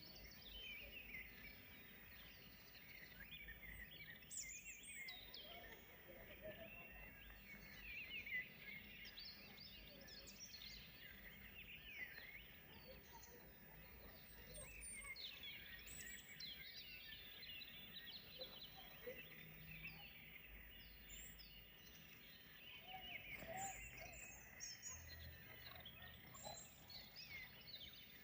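Faint chorus of songbirds singing, many short overlapping chirps and trills, with a faint low rumble underneath.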